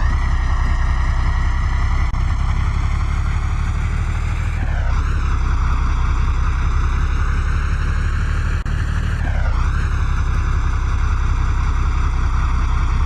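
Truck engine running steadily under load with a heavy low rumble; its pitch rises slowly, then dips sharply and recovers twice, about five seconds in and again after about nine and a half seconds.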